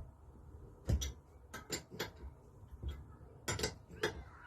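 Sharp metallic clicks and knocks as tools and small metal engine parts are handled during a strip-down of a Lister D engine, in three short clusters over a few seconds.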